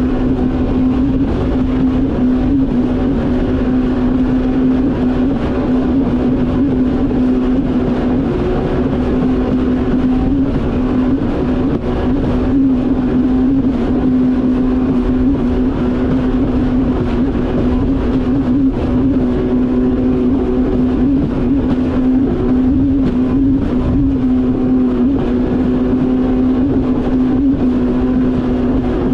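Yamaha VX Cruiser H.O. WaveRunner running at a steady, unchanging speed, its engine and jet pump holding one constant pitch over a heavy rush of wind and water.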